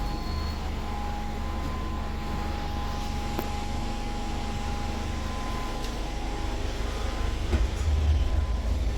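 Interior of a Scania K280UB city bus on the move: a steady low drivetrain rumble with a thin steady whine and a few sharp rattles from the body. Near the end the rumble gets louder and pulses, as the engine pulls harder.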